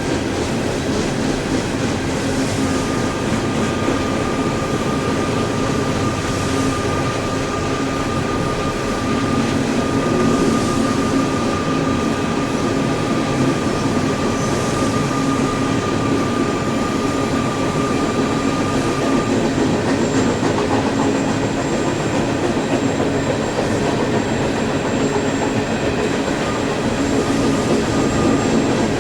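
CSX freight train cars rolling past with a steady rumble and rattle of wheels on rails. A thin high wheel squeal runs through much of the first two-thirds.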